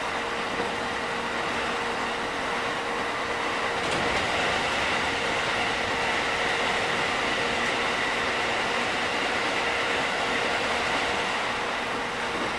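Inside a JR 205 series 5000-subseries electric train with Toyo IGBT VVVF drive, running at steady speed: an even rumble of wheels on rail with a steady hum and whine, slightly louder from about four seconds in.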